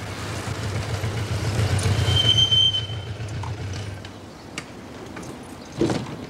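A train passing a level crossing: a low rumble that swells and peaks about two seconds in, with a brief high wheel squeal, then fades. A short loud sound follows near the end.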